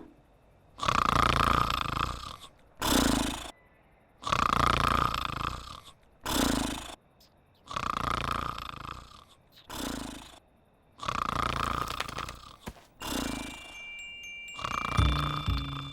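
Cartoon snoring: a long rasping breath and a shorter, lower one, repeating about every three and a half seconds. Music comes in near the end.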